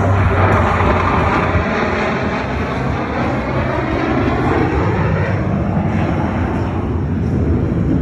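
Blue Angels F/A-18 Super Hornet jets making a fast low pass. Loud jet engine roar that drops in pitch as they go by, a few seconds in.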